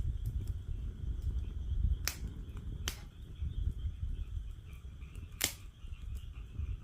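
Wood fire crackling in a fire pit stand: scattered sharp pops, the loudest about five and a half seconds in, over a low steady rumble. Frogs call faintly in the background.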